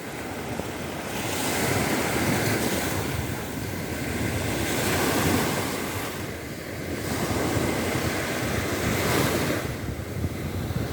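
Waves washing in, the rushing noise swelling and easing every few seconds, with wind on the microphone.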